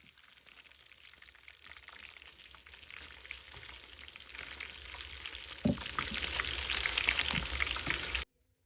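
Trout cooking over a wood fire: a dense sizzle full of small crackles that grows steadily louder, with a single thump about two thirds of the way through. It cuts off suddenly near the end.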